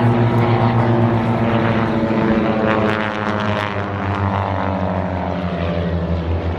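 A WWII-era fighter's Pratt & Whitney R-2800 radial piston engine and propeller pass by at speed. The engine's drone is loud and steady, then drops in pitch about three seconds in as the plane goes past.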